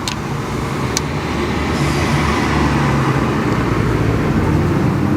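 A performance car's engine running hard on a track, a loud, fairly steady low engine note that shifts slightly in pitch, with a couple of brief clicks near the start.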